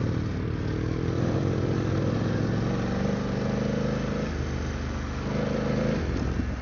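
BMW F900GS parallel-twin engine running at low revs, its pitch stepping up and down several times with throttle changes, over a steady rush of wind and riding noise.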